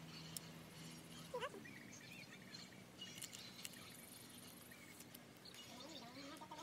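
Faint rural outdoor ambience with a few scattered bird chirps and light clicks.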